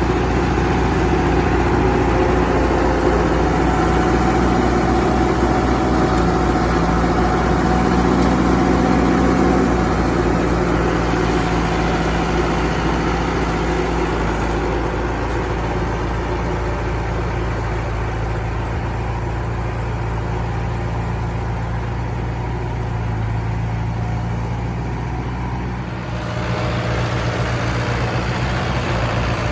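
International Harvester 574 tractor engine running steadily; it eases off about ten seconds in and settles into a lower, pulsing beat near the end.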